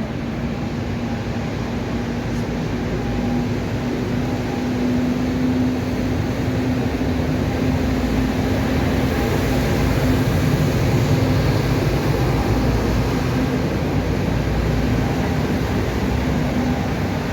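Steady mechanical hum: a constant low tone over a dense, even rumble, slightly louder in the middle.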